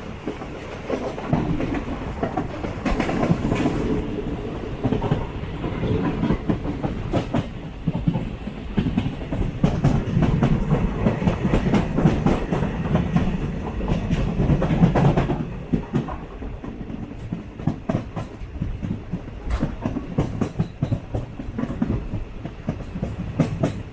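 Vande Bharat Express train running on the rails, a steady low rumble with the wheels clicking over rail joints. The rumble swells after the first second and eases about two-thirds of the way through, leaving sharper, quicker clicks.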